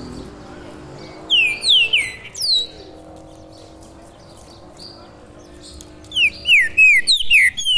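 A caged black songbird calling in loud whistled notes that each slide downward in pitch. There is a run of four about a second in, and a quicker run of five near the end.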